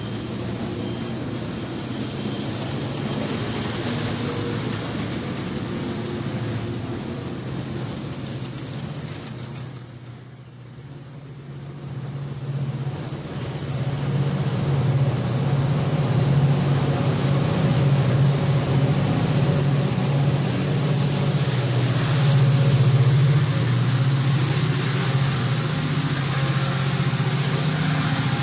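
Metrolink bi-level commuter train rolling past along a platform, its wheels squealing in high wavering tones through the first half or so. A low steady diesel engine drone swells in the second half and is loudest a little past two-thirds in, as the train's locomotive goes by.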